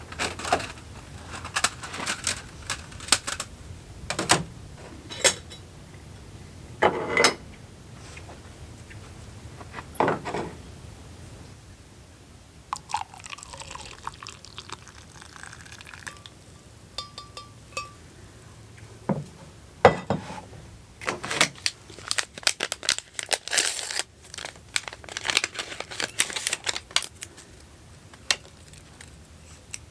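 Irregular clicks, knocks and clatter of small hard objects being handled, in scattered clusters, with a short faint steady tone about halfway through.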